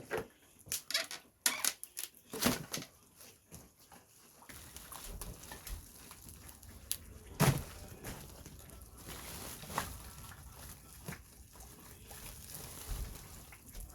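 Scattered light knocks and clatters of objects being handled, quick and frequent for the first few seconds, then sparser over a low steady hiss, with one louder knock about halfway through.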